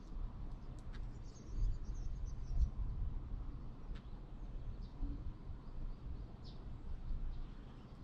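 Small birds chirping faintly in short, scattered high calls over a steady low rumble, with a few sharp clicks.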